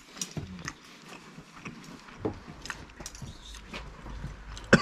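A man chewing a mouthful of crisp-fried bratwurst: soft, irregular mouth clicks, with one sharp click near the end.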